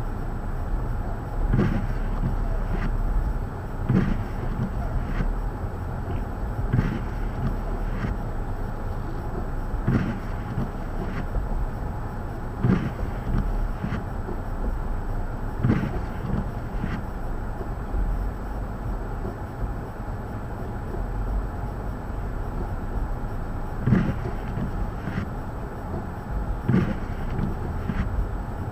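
Blizzard wind rumbling steadily on the microphone, with soft knocks about once a second.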